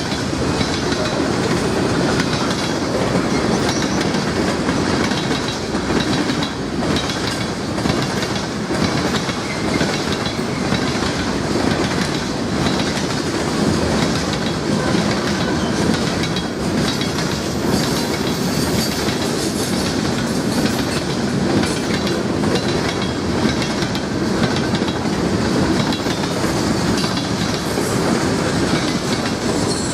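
Railroad cars of a Norfolk Southern train rolling past steadily, their wheels clicking over the rail joints.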